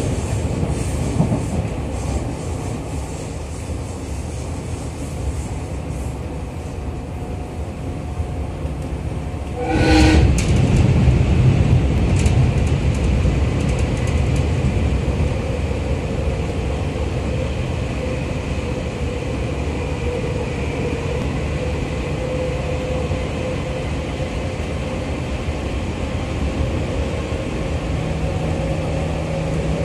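Running noise inside a JR 211 series electric train car on the move: a steady low rumble from the wheels on the rails. About ten seconds in a short sharp tone sounds, and the rumble grows louder from then on.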